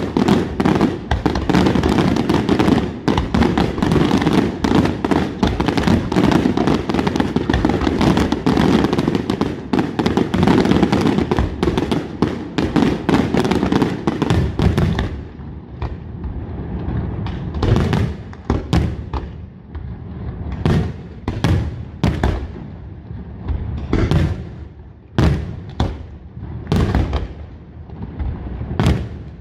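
Aerial fireworks display: a dense, continuous barrage of shell bursts for about the first half, then thinning to separate bangs about one a second.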